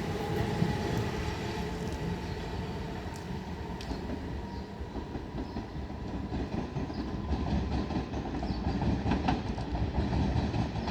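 Train running on the track with a steady rumble, and wheels clattering over rail joints more strongly near the end.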